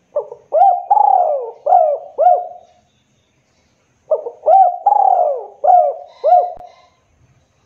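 Spotted dove (tekukur) cooing: two phrases of about five low notes each, about four seconds apart.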